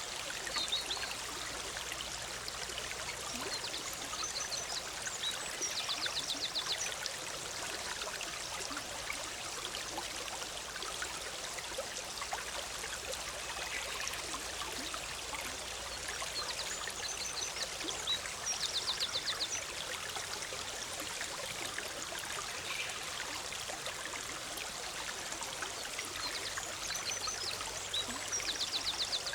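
Big Sur River running as a steady, bubbling forest stream. A small songbird sings over it three times, about every eleven seconds, each time a short high phrase ending in a rapid trill.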